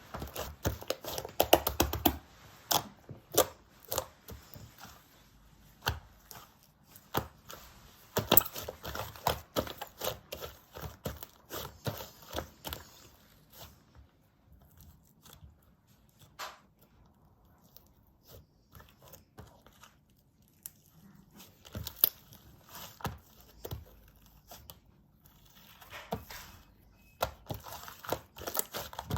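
Slime being squished, poked and stretched by hand, making bunches of small sticky pops and crackles; it goes quieter for several seconds in the middle before the popping picks up again.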